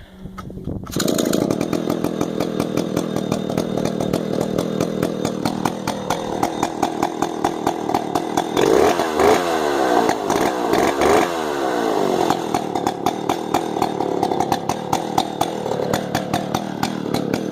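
Stihl 070 two-stroke chainsaw catching about a second in and running with a rapid, even firing, revved up and down a few times midway. It starts on the first pull now that its carburettor settings, which had been a little out, are put right.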